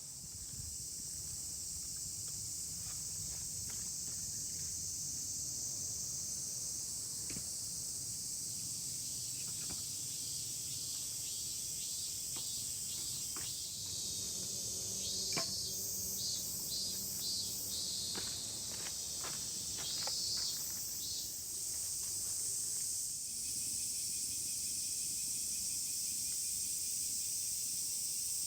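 Steady high-pitched insect chorus, with a few light knocks and short repeated chirping calls around the middle.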